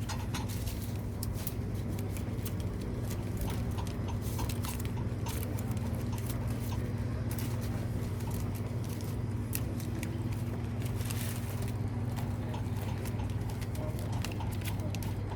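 Food-stall ambience: a steady low hum with many small scattered clicks and clatters.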